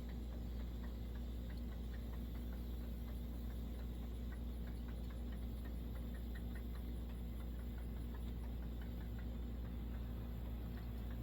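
Faint, scattered light clicks and ticks of small stove parts being handled, as a spring is worked over a repaired fuel pickup tube stem. A steady low hum runs underneath.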